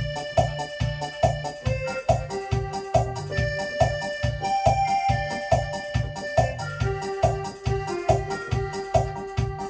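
Electronic organ playing a melody in held notes over its steady rhythm-accompaniment beat, a little over two beats a second.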